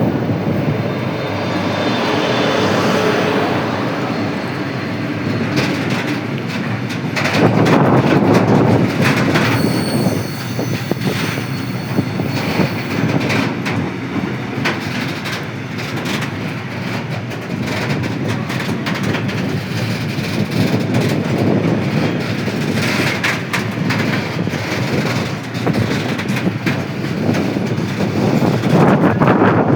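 Train passing at close range behind a ZSSK Cargo class 240 electric locomotive, its wheels clattering over the rail joints in a steady run of clicks, with a thin high wheel squeal about ten seconds in.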